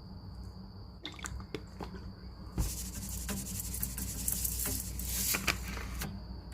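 Kitchen cooking sounds: a few light clicks and knocks, then a hiss with crackles for about three seconds, from about two and a half seconds in.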